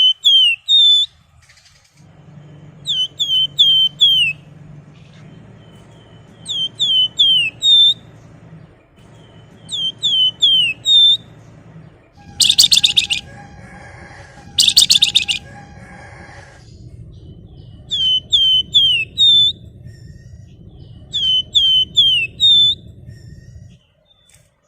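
Flamboyan songbird singing: repeated phrases of four or five quick, high, downward-sweeping whistled notes every three to four seconds, with two loud harsh rasping calls around the middle. A low steady hum runs underneath.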